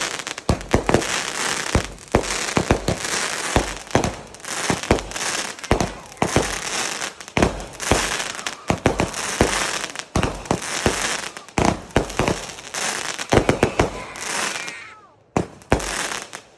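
Consumer fireworks going off in quick succession: a dense run of sharp bangs over a continuous crackling hiss, dying away about two seconds before the end with a few last separate bangs.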